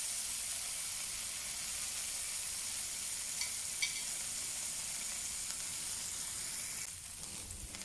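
Scallops sizzling in hot oil in a non-stick pan, seared side up and searing on their second side: a steady frying hiss. There are two faint light clicks about three and a half seconds in, and the sizzle eases a little near the end.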